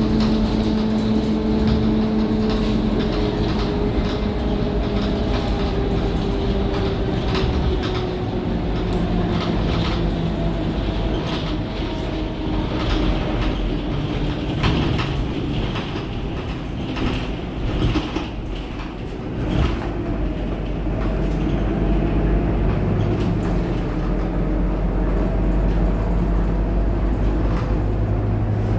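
Scania K230UB city bus's five-cylinder diesel engine and drivetrain running. The pitch falls as the bus slows over the first several seconds, with rattles and clicks through the middle. It rises again as the bus pulls away and gathers speed in the last third.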